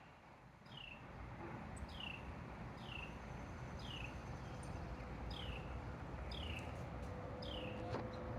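A bird repeating a short, high call that slides downward, about once a second, over a low background rumble that grows louder. A steady low hum comes in near the end.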